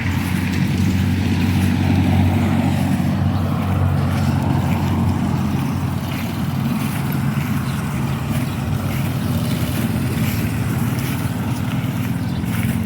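A vehicle engine running at a steady low hum.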